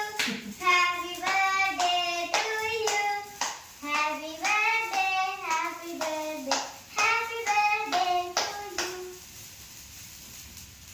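Children singing a birthday song with hand clapping in time, the claps coming about one and a half times a second. The singing and clapping stop about nine seconds in.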